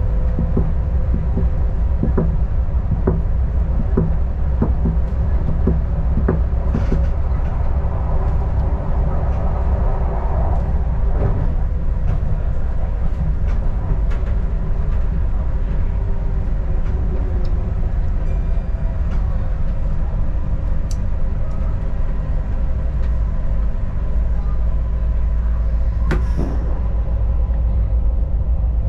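Adelaide Metro diesel railcar running along the track: a steady low rumble with a constant engine hum. Through the first several seconds there are regular clicks about once a second, wheels passing over rail joints.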